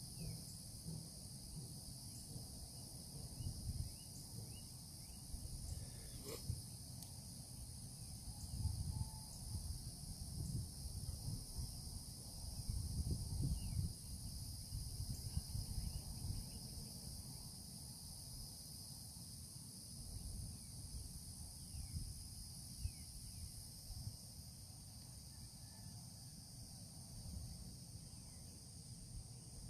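Steady insect chorus, a continuous high buzzing in several layered pitches, over an uneven low rumble.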